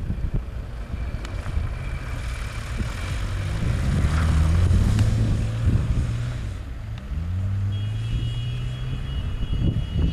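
Small hatchback rally car's engine revving as it drives through deep snow. The engine note climbs, drops away briefly about two-thirds of the way through as if for a gear change, then climbs again.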